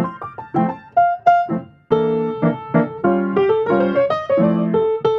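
Background music: piano-style keyboard playing chords and a melody, with a brief break about two seconds in.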